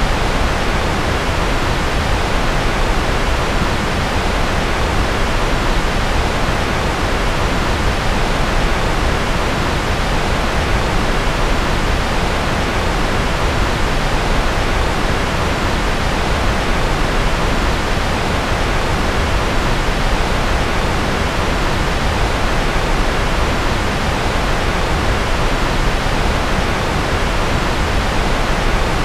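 Continuous synthetic noise: an even, unchanging hiss with no events, heavier in the low end and fading toward the highs.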